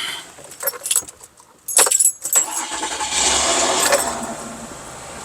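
Keys jangling, then a Mazda minivan's V6 engine cranks and starts about two and a half seconds in, on a jump starter pack clipped to its nearly dead battery. It runs at a raised idle at first and then settles lower.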